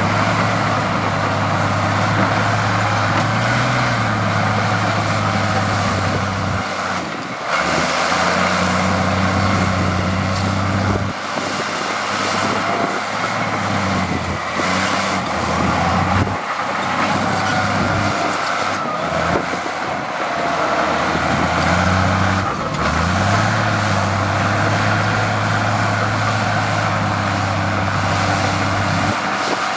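Heavy diesel engine of earthmoving machinery running under varying load. Its steady low note drops out and comes back several times, and it rises in pitch about three quarters of the way through.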